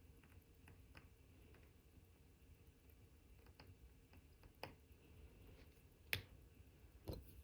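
Faint, scattered clicks of small metal watchmaker's tools, such as tweezers, touching the parts of an Omega Cal.1109 watch movement during reassembly, with one sharper click about six seconds in and a couple more near the end.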